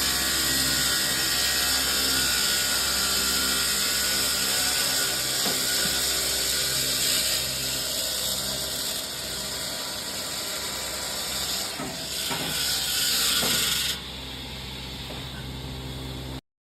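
Machinery running steadily on a demolition site, with a constant low hum, a high whine and a few faint knocks. The sound drops to a quieter level near the end.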